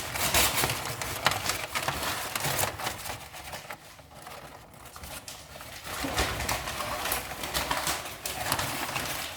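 Irregular crackling and rustling as paper is stuffed into the firebox of a freshly lit wood-burning sauna stove-fireplace, its kindling fire crackling; it eases off for a couple of seconds in the middle.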